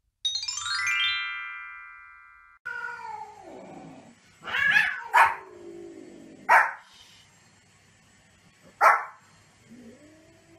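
A countdown transition jingle: a quick cascade of bright chiming tones that ring out for about two seconds. Then a small white spitz-type dog gives four sharp, single barks a second or two apart, and a cat meows once near the end.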